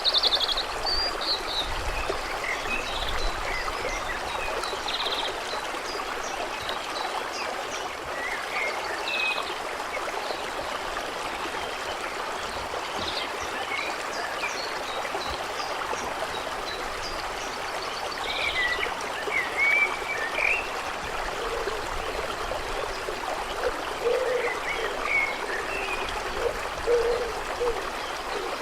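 Stream running steadily over stones, with short bird chirps scattered throughout and a few lower calls near the end.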